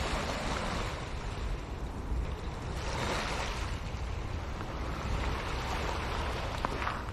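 Wind buffeting the microphone outdoors: a steady rushing noise with an uneven low rumble and no clear sound standing out above it.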